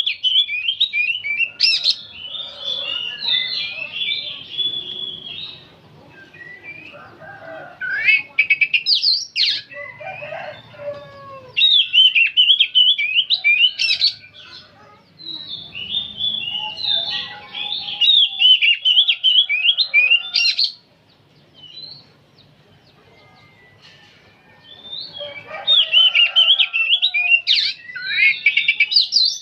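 Oriental magpie-robin singing in long bursts of rapid, high chattering notes. The phrases come one after another with short breaks, and there is a longer pause about two-thirds of the way through.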